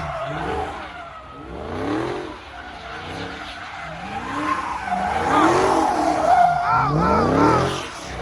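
A car engine revving up and falling back over and over, with tyres squealing and skidding on the pavement; the squeal is loudest in the second half.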